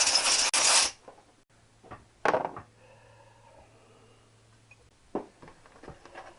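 Pressurised spray hissing in two loud bursts over the first second, a shorter burst a little after two seconds, then a few light clicks near the end. The spray is aimed at a motorcycle cylinder head to loosen carbon deposits for decoking.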